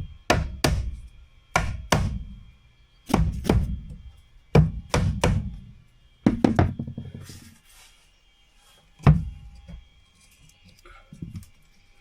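Hammer blows on wooden ceiling panels: about a dozen sharp knocks, each with a short low ring, in runs of two or three during the first seven seconds, then a single blow about nine seconds in.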